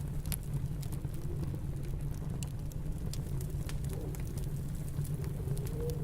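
Wood fire crackling with sparse sharp pops over a steady low rumble of snowstorm wind, with a faint wavering whistle rising and falling in the wind.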